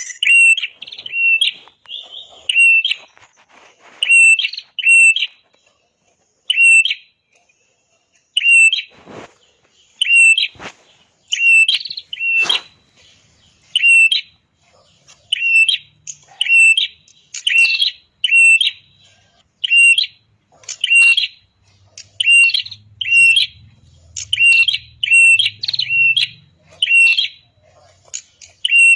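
Red-headed prenjak songbird calling: loud, sharp chirps repeated about once or twice a second, often in quick pairs or runs of three.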